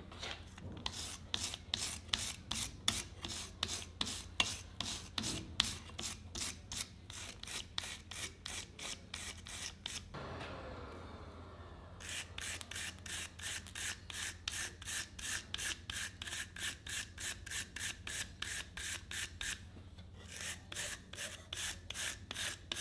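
A hand file rasping back and forth on the steel of a kiridashi knife blade, in steady strokes about two a second, with two short pauses.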